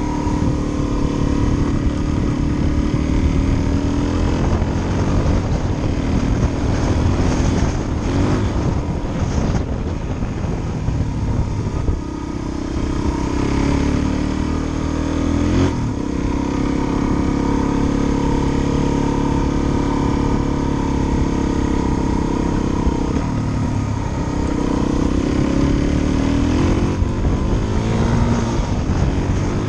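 Suzuki DR-Z400 single-cylinder four-stroke engine pulling the bike along, its pitch climbing and dropping back several times as the rider accelerates and eases off, with a short sharp click about sixteen seconds in.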